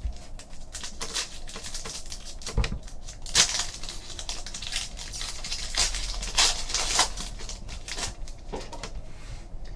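Trading card packs being handled: foil wrappers crinkling and tearing and cards being flipped and shuffled, a dense run of rustles and clicks with several louder crinkles.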